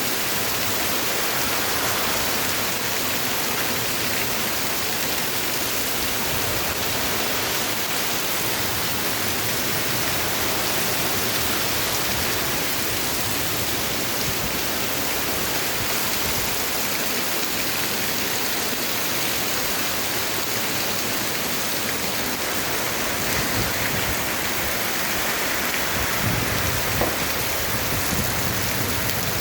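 Heavy rain falling steadily in a dense, even hiss, with a low rumble swelling briefly near the end.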